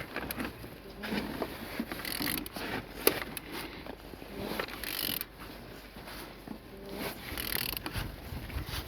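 An engine being turned over by hand, with irregular ratchet clicks and mechanical rattling and one sharp click about three seconds in. The engine turns properly and is not seized.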